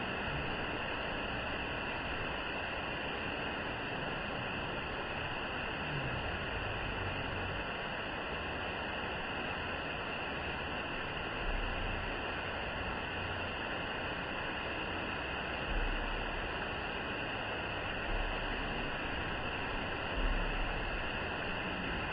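Waterfall: a steady, even rush of falling water. A few brief low thumps on the microphone come in the second half.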